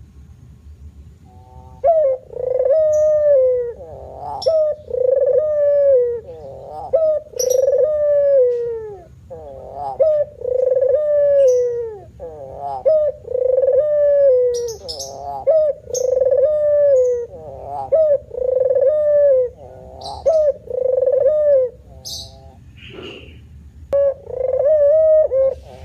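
Male puter dove (Barbary dove) cooing in its manggung display song: a long run of repeated coos, about one a second, starting about two seconds in, with a brief break near the end. Small birds chirp high and briefly over it now and then.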